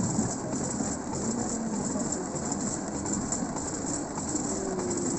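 A 1945 pedal rail-cycle draisine rolling steadily along the track: its steel wheels rumble and rattle on the rails.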